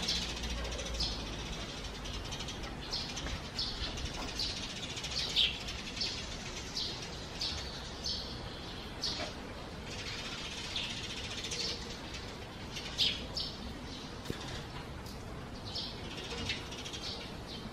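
Small birds chirping: short high chirps repeating irregularly, about once a second, over a steady background hiss.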